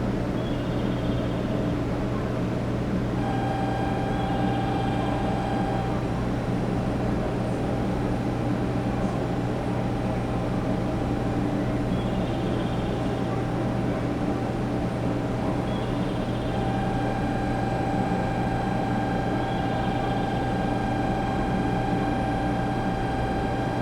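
500 series Shinkansen standing at a station, its on-board auxiliary equipment running with a steady low hum. A higher whine comes on for a few seconds, stops, then comes back and holds.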